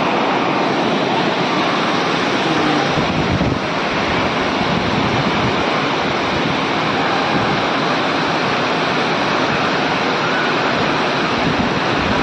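Tirathgarh waterfall: the steady, loud rush of falling water, an even dense noise with no break.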